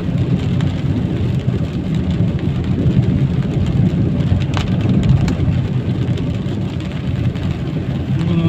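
Steady low rumble of a moving vehicle's engine and tyres on a rain-wet road, with rain noise mixed in and a couple of faint ticks around the middle.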